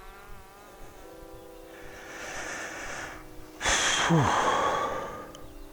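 A person breathes in, then lets out a long heavy sigh about halfway through that ends in a short falling voiced tone. A faint steady buzz runs underneath.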